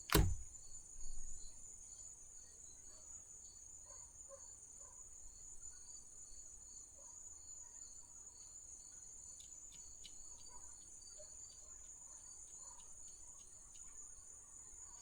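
Crickets trilling steadily in the background, a constant high buzz with a second, pulsing chirp about twice a second. A sharp tap at the start and a few light clicks near the middle from tarot cards being handled.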